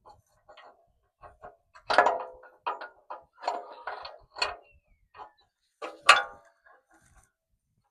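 Irregular metallic clinks and knocks of bolts and mounting hardware being handled while a steel bumper is bolted on, with two louder ringing clanks about two seconds and six seconds in.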